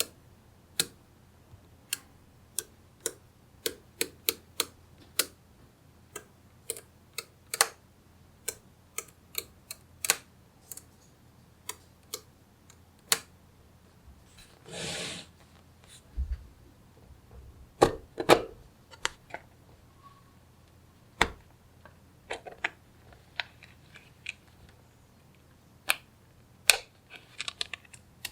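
Small magnetic balls clicking as they snap onto one another, in irregular single sharp clicks, with a short rustle about halfway through.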